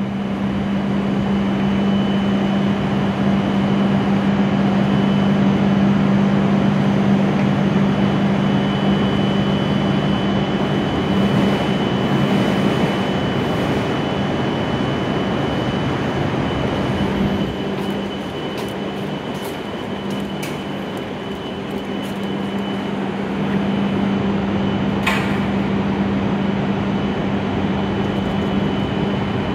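A stationary W7 series Shinkansen train humming steadily as it stands idle at the platform, a low drone with a faint high whine over it. The hum dips a little partway through, and there is a single short click near the end.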